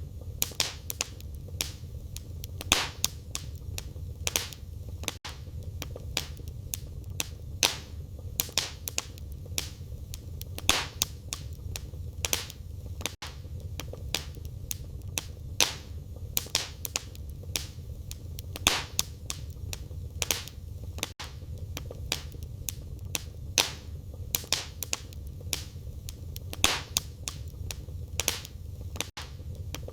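Wood fire burning in a fireplace: irregular sharp crackles and pops of burning firewood, several a second, over a steady low rumble of the flames.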